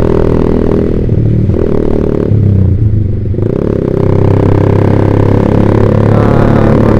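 Yamaha Vixion's single-cylinder engine running through a Proliner TR1 R aftermarket exhaust while riding. The note drops off about a second in, as the throttle is eased, and picks back up a couple of seconds later.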